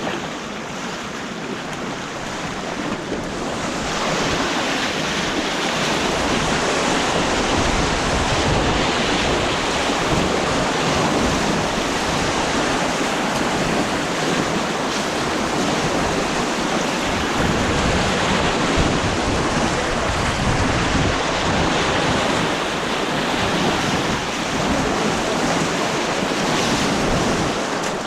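Rushing white water on an artificial white-water course, a steady roar that grows louder about four seconds in, with low buffeting on the microphone.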